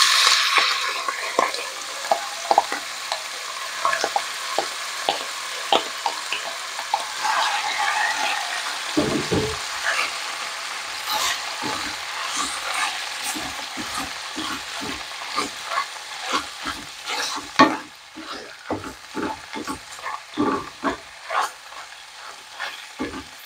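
Shredded chicken sizzling as it drops into hot olive oil in a skillet, loudest in the first second or two, then frying at a lower steady hiss while a wooden spoon stirs it, with many short taps and scrapes of the spoon against the pan.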